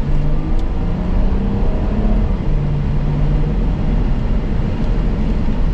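Strong wind buffeting the microphone in a loud, steady low rumble, with a faint low hum underneath.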